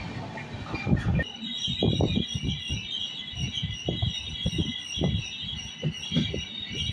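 Train rolling on the line, its wheels knocking irregularly over rail joints. A loud rush of noise cuts off about a second in, and a steady, pulsing high-pitched chirring carries on behind.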